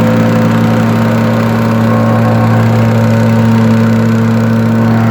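An engine running steadily at constant speed, with a steady low drone.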